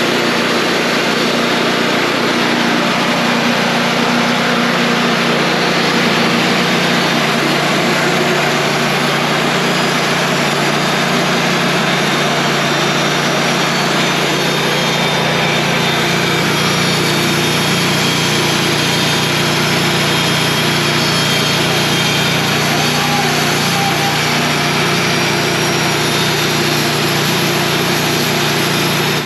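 Wood-Mizer portable band sawmill running steadily and loudly, its engine driving the band blade through a log as a beam is milled.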